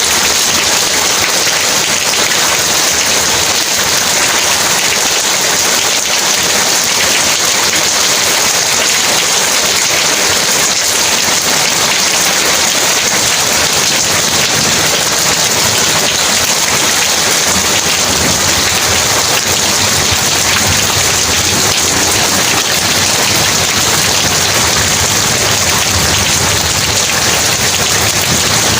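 Heavy rain falling as a steady, dense hiss, with a low rumble of thunder underneath in the second half.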